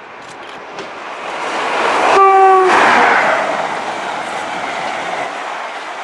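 LNER express passenger train approaching and passing close by at speed, a rising rush of wheels and air that is loudest about two to three seconds in. A short single-note horn blast sounds just after two seconds. The rumble and clatter of the coaches going past follows it.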